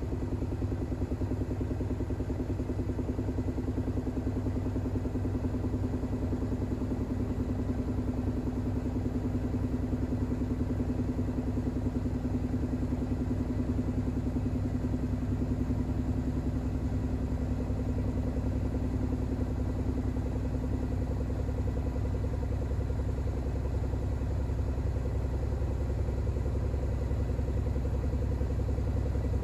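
Bosch WAX32GH1 front-loading washing machine spinning a load of towels in an unbalanced intermediate spin: a steady motor hum over a low drum rumble.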